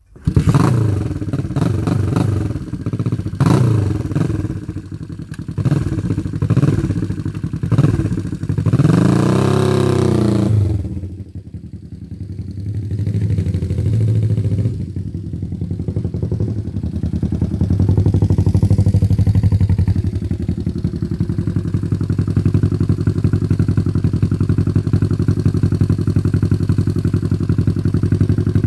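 1971 Honda CB350's air-cooled four-stroke parallel-twin engine catching on the kickstart and running through its short custom muffler: revved several times in the first seconds, with one long rise and fall of revs about nine seconds in, then settling to a steady idle.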